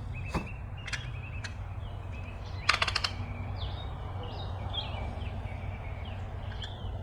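Bubble wrap packaging being handled and unwrapped: a few separate crackles, then a tight cluster of sharp crackles about three seconds in. Birds chirp throughout over a steady low rumble.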